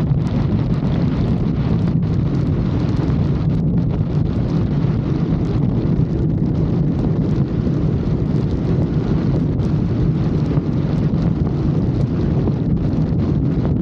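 Wind buffeting the microphone over a motorcycle engine running steadily at riding speed.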